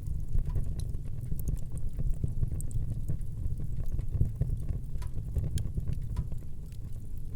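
Wood fire burning in a fireplace: a steady low rumble of flame with scattered sharp crackles and small pops from the burning logs.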